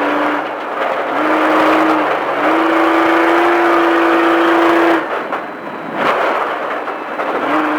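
Off-road race truck's engine under way on a dirt track, its note climbing in steps and then holding steady before dropping off about five seconds in, leaving a rough rumble from the truck.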